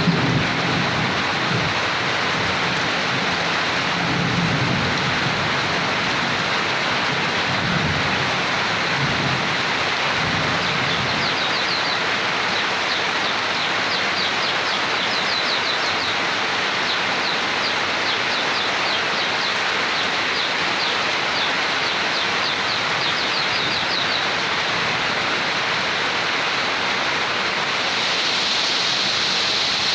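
Steady heavy rain with thunder rumbling low through the first ten seconds or so, then fading. In the middle, a run of faint, quick, high-pitched chirps sounds over the rain.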